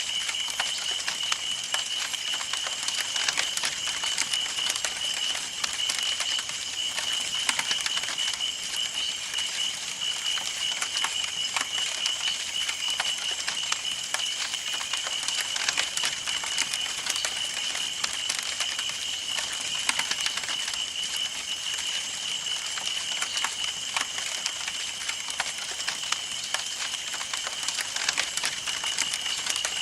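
Campfire burning, with dense, irregular crackling and popping of the wood over a steady hiss. A steady high-pitched tone runs underneath.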